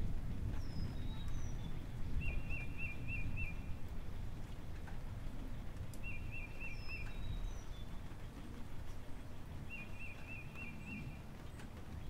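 A bird sings a short trilled phrase about every four seconds, with a few higher chirps between, over a steady low rumble from the gas stove where diced potatoes and peppers are cooking in a frying pan.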